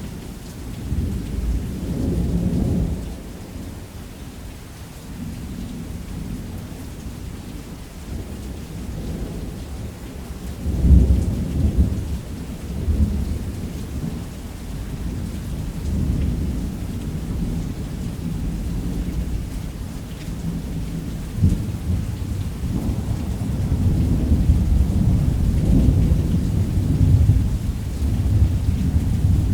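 Thunderstorm: steady heavy rain with deep rolling thunder that swells up several times, strongest about 11 seconds in and building again toward the end.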